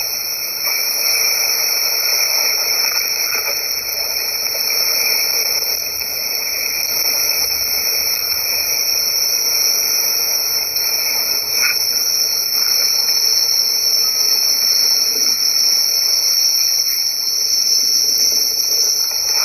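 Steady, high-pitched chorus of insects, an unbroken drone.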